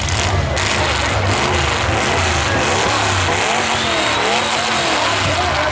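Engines of stock full-size demolition derby cars running loudly and revving.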